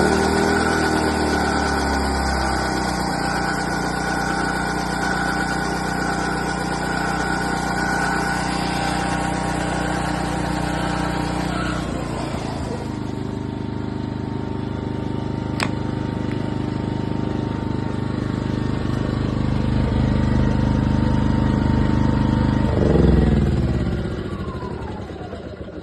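Ryobi petrol inverter generator running at a steady speed, its engine settling to a slightly different steady pitch about halfway through. Near the end the engine briefly surges, then winds down and dies away.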